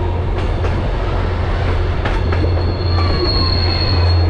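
Kuranda Scenic Railway train running on the rails: a loud, steady low rumble with a few clicks. A high, steady wheel squeal comes in about two seconds in and holds for the rest.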